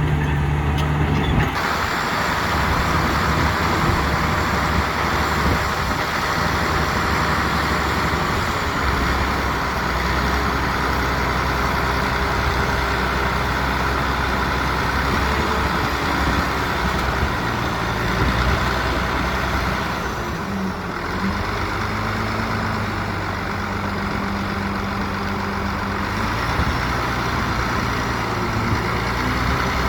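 Heavy diesel engines of earthmoving machinery, a bulldozer and dump trucks, running steadily, with the engine note shifting in pitch a few times as they work.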